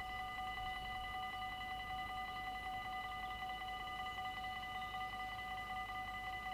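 Dutch level-crossing warning bells ringing steadily, a rapid electronic ringing of several fixed tones at once.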